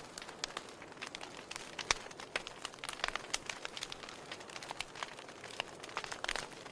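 Wood fire crackling: irregular sharp pops and snaps over a soft steady hiss, one louder pop about two seconds in.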